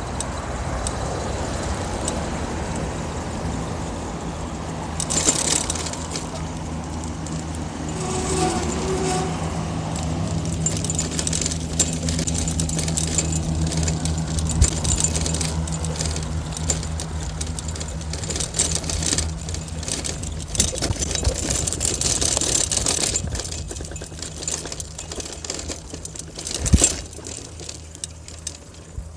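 Riding a bicycle along city streets with road traffic: a steady low hum of cars and engines under constant small rattles and clicks. Louder rushes of noise come about five, eight and twenty-two seconds in, and there is a sharp knock near the end.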